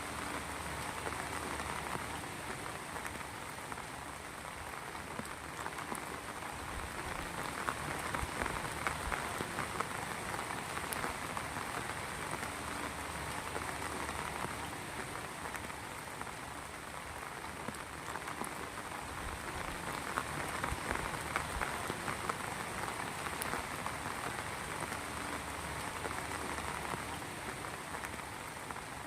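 Heavy rain falling steadily, with many small drop impacts ticking through it.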